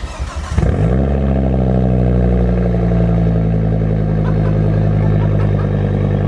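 Turbocharged Volvo engine cranks and fires about half a second in, its speed easing down briefly before settling into a steady idle. It runs through a freshly fabricated exhaust with the resonator and rear muffler removed.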